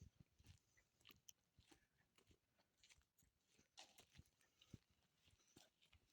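Near silence with faint, irregular crunches and clicks, spaced about half a second to a second apart.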